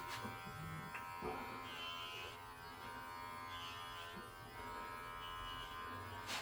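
Electric pet hair clippers running with a steady buzz as they trim a cat's fur, with a few brief soft knocks.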